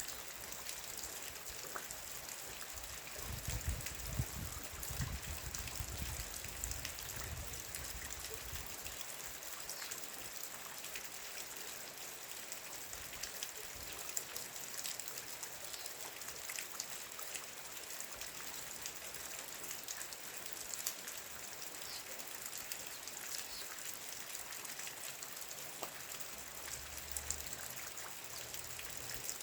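Steady rain falling, a constant hiss with many small drop ticks. A low rumble comes in a few seconds in and again briefly near the end.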